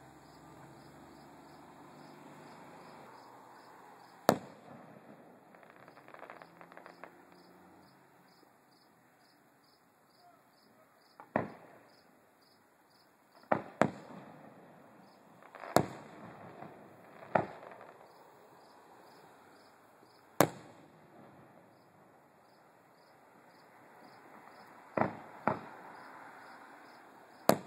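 Distant aerial fireworks shells bursting: about ten sharp bangs a few seconds apart, some in quick pairs. Crickets chirp steadily underneath.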